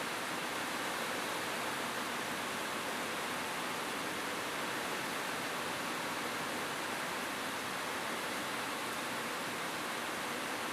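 Steady rain falling on a roof, an even, unbroken hiss with no distinct drops or thunder standing out.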